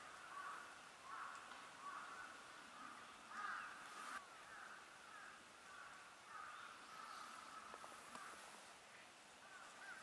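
Birds calling faintly in a continuous run of short, repeated calls, a little louder about three and a half seconds in.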